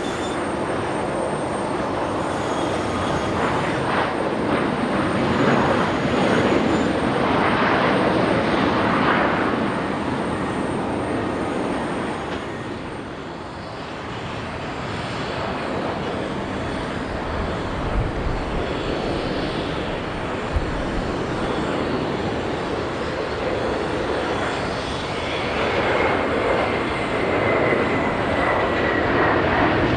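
Jet airliner engines passing: a loud rushing noise that swells, eases about halfway through, then builds again, with a high whine that slowly falls in pitch near the end.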